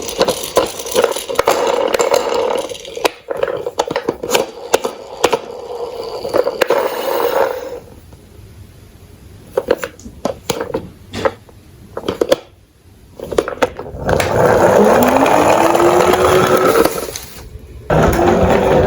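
Plastic toy garbage trucks rolling and scraping down a slope, with many sharp knocks and clatter. It turns quieter with scattered knocks for a few seconds, then becomes a loud steady rolling noise with a rising whine about two-thirds of the way in.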